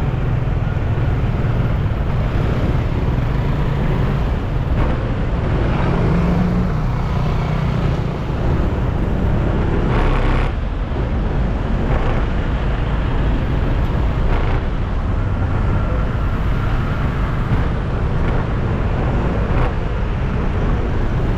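Road traffic in a jam around a scooter rider: motorcycle and car engines running in a steady low rumble, with a brief sharper sound about halfway through.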